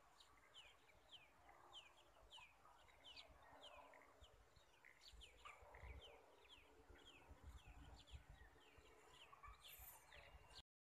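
Faint outdoor ambience of small birds chirping: a steady string of short, falling chirps, two or three a second.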